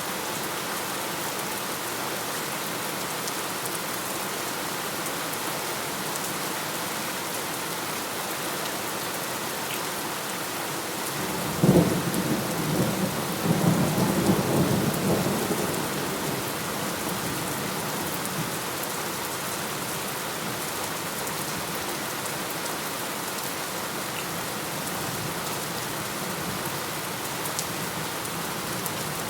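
Steady rain falling, with a clap of thunder about twelve seconds in that rolls and rumbles for a few seconds before fading back into the rain.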